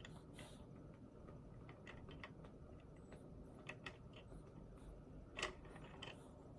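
Quiet, scattered computer keyboard taps and mouse clicks, a few at a time with short pauses, the firmest about three quarters of the way in.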